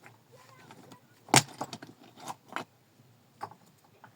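A series of sharp, irregular knocks and clacks of hard objects striking each other. The loudest comes about a second in, followed by five lighter ones.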